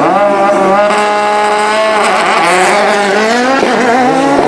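Rally car engine at high revs: the pitch climbs as it accelerates, holds steady, then wavers and drops briefly about three and a half seconds in before climbing again as it picks up speed.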